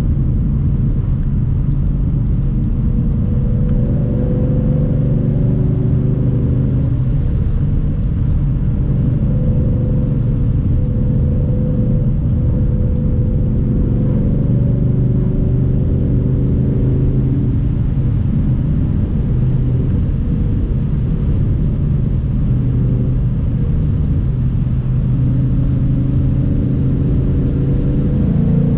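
Car engine running steadily under way, with road rumble; near the end the engine note rises as the car accelerates.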